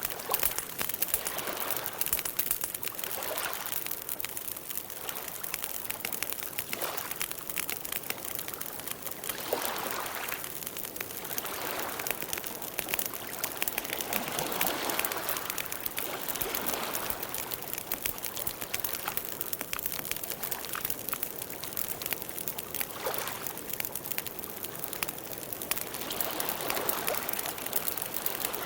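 Campfire burning: wood crackling with frequent sharp pops and snaps over a soft rushing of the flames that swells and fades every few seconds.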